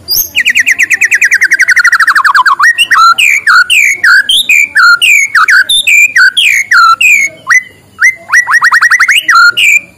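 White-rumped shama singing loudly. It opens with a fast trill of about fourteen notes a second that falls steadily in pitch, then gives a run of clear, swooping whistled notes at about two a second. Near the end it breaks into another quick run of rising notes.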